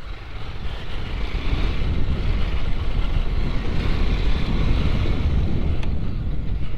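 Bajaj Pulsar motorcycle's engine running, with wind buffeting the microphone; the sound grows louder over the first couple of seconds, then holds steady.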